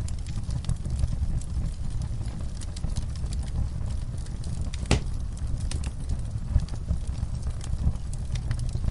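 Wood fire burning in a fireplace: a steady low roar with scattered crackles and one loud pop about five seconds in.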